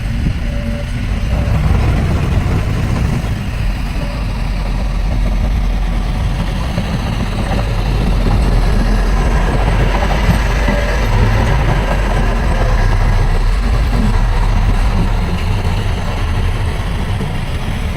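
Heavy diesel earthmoving machinery running steadily, a continuous low engine rumble that grows slightly louder about halfway through.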